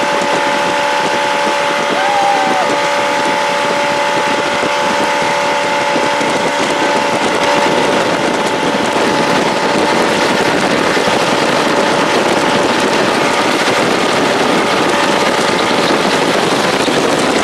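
Jet boat running at speed across the water: a steady engine whine under heavy wind noise on the microphone, which thickens and gets a little louder about eight seconds in.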